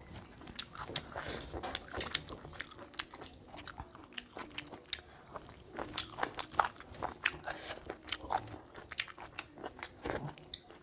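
Close-up chewing and biting of curry and rice eaten by hand, heard as many short, irregular clicks, with fingers wiping a steel plate.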